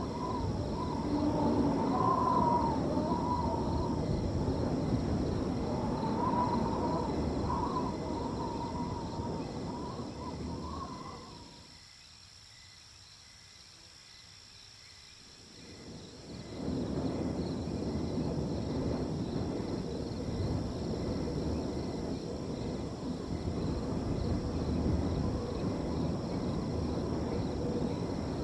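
Wind blowing in gusts over a steady background of chirping crickets. A wavering whistle runs through the first ten seconds or so. The wind dies away about twelve seconds in and picks up again some four seconds later.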